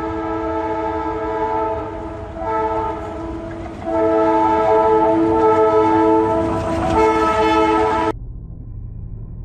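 Train horn sounding a long, steady multi-tone chord that eases off for a couple of seconds and then comes back strongly. It cuts off abruptly about eight seconds in, leaving only a low rumble.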